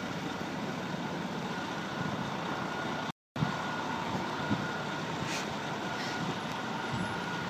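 Steady city street traffic noise, vehicles running in snowy streets, with a short gap of silence about three seconds in.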